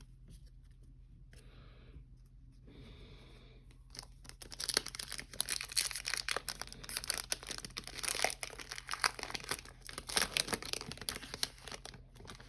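A foil trading card pack wrapper being torn open and crinkled by hand: dense crackling and rustling that starts about four seconds in and runs for some seven seconds before easing off.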